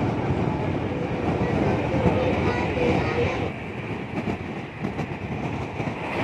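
Old Delhi–Pathankot Superfast Express running on the track, heard from on board: a steady rumble of wheels on rails. A faint wavering tone rides over it in the first half, and the noise eases slightly about three and a half seconds in.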